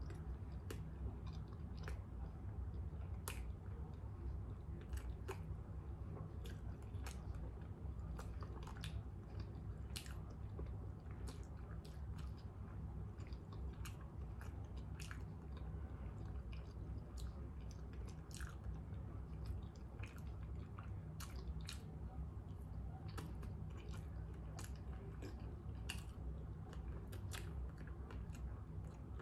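A person chewing a chili dog in a bun, with frequent small wet mouth clicks and smacks. A steady low hum runs underneath.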